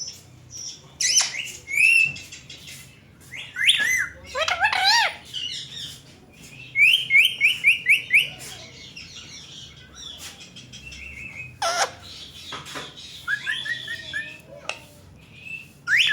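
Indian ringneck parakeets calling: scattered high squawks and gliding whistled notes, with a quick run of about eight short rising chirps about seven seconds in.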